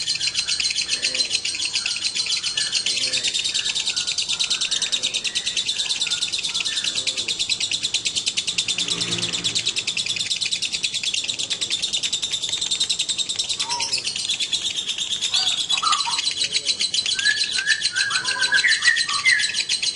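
Lovebirds chirping in a long, very rapid, unbroken high-pitched trill, with a few louder separate chirps near the end.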